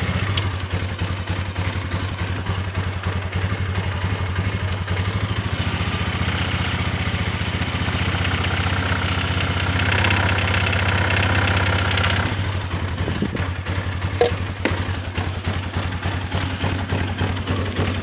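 Polaris Sportsman 400 ATV's single-cylinder four-stroke engine idling roughly with its battery disconnected; the owner is asking what causes this rough idle. A brighter, harsher stretch comes about ten seconds in, and a few sharp clicks follow a little later.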